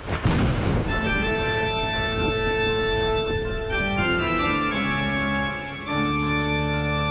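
Organ playing held chords. The chord changes about four seconds in, and a deep bass note joins near six seconds.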